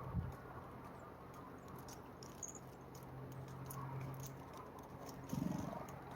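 Small birds pecking and scratching at seed on a feeder tray: faint, irregular ticks and taps over a steady low hum, with a soft thump near the end.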